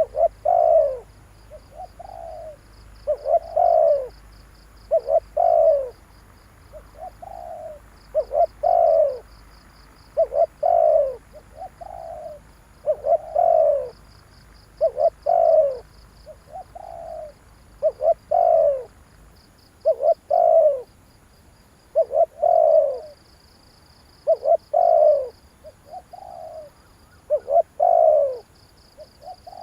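Spotted dove cooing its song over and over, a short two-part coo phrase about every two seconds: the call used to lure wild doves. A faint, rapid, high chirping runs behind it.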